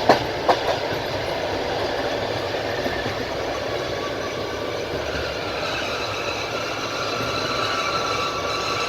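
Passenger train's wheels rolling on the rails: two last clicks over rail joints at the start, then a steady rumble, with a faint high wheel squeal creeping in about halfway through.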